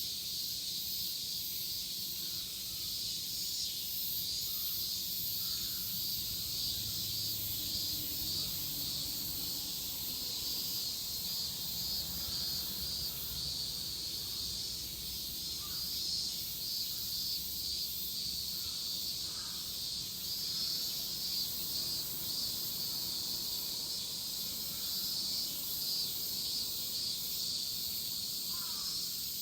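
Chorus of cicadas shrilling steadily in a high, unbroken drone, with a few faint short bird calls.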